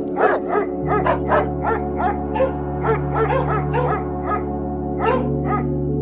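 A dog barking in quick short barks, about three to four a second, over background music with steady held notes.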